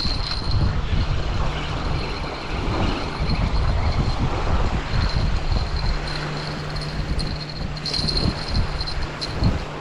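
Gusty wind buffeting the microphone in uneven surges, over the wash of wind-driven waves, with a thin steady high tone under it.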